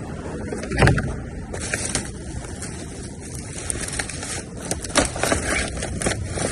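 Rummaging through trash: a thump about a second in, then rustling and scattered knocks and clicks as items are handled and moved.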